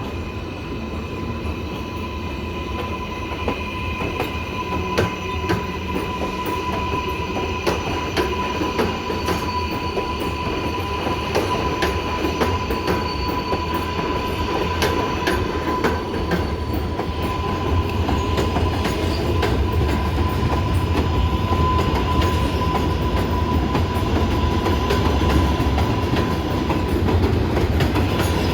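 R188 subway train running on elevated track: a steady rumble with repeated wheel clicks over the rail joints and a thin steady whine, growing gradually louder.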